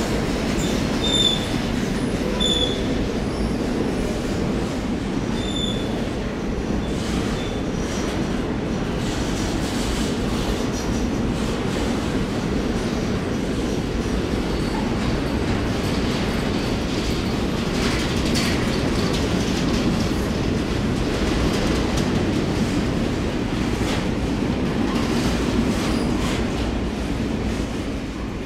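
Steel grain hopper wagons of a freight train rolling past at steady speed: a continuous wheel-and-rail rumble with light clicking over rail joints, and a few brief high wheel squeals in the first few seconds. The sound fades near the end as the last wagon goes by.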